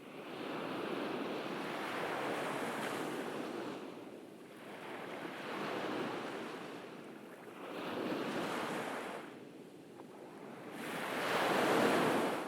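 Ocean waves breaking and washing up on a beach, four swells of surf, the last the loudest, with some wind on the microphone.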